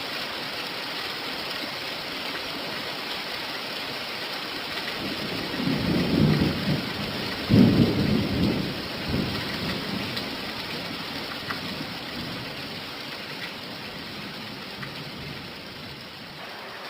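Steady rain hissing, with a roll of thunder that rumbles up about a third of the way through, peaks shortly after and fades away over a few seconds.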